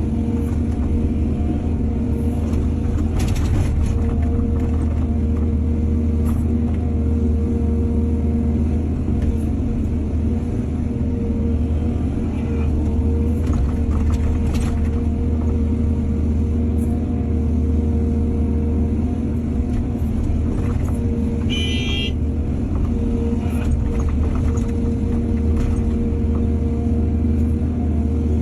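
Excavator's diesel engine running steadily under work, a deep hum with a steady drone above it, broken by a few clanks and a brief high squeal late on.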